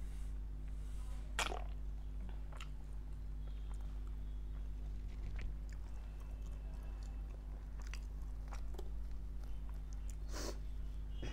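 Close-miked eating sounds: chewing with small wet mouth clicks over a steady low electrical hum. There are two louder brief noises, one about a second and a half in and one near the end, the second as a piece of garlic naan is torn off.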